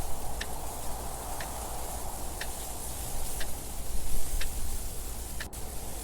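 Mechanical clock ticking steadily, one tick a second, over a steady background of wind noise.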